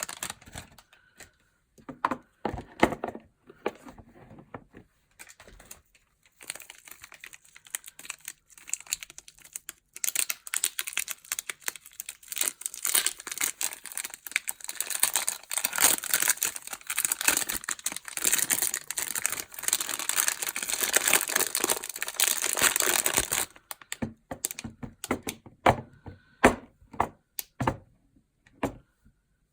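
Soap packaging being handled and unwrapped: wrappers crinkling and tearing, with scattered taps and clicks. The crinkling turns dense and continuous from about a third of the way in until about four-fifths through.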